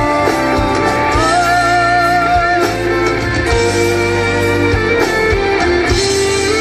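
Live band playing an instrumental passage of a slow ballad, with guitar over a steady bass and a held melody line that wavers with vibrato.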